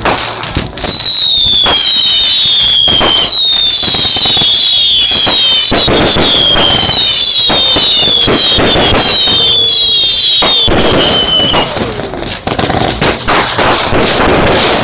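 Fireworks going off in a rapid string: many sharp cracks and pops, overlaid from about a second in by a run of high-pitched whistles, about two a second, each dropping slightly in pitch. The whistles stop about eleven seconds in, leaving scattered crackling.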